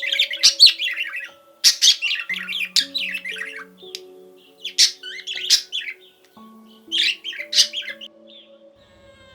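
Birds calling in quick, squawking flurries, about five bursts spaced a second or so apart, over soft background music of slow held notes.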